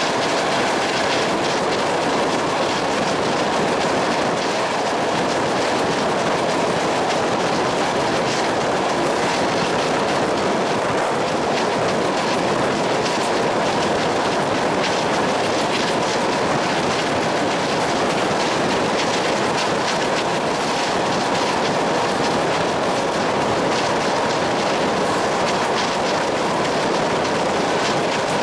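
A train in motion: steady noise of wheels running on the track, with faint clicks over the rails.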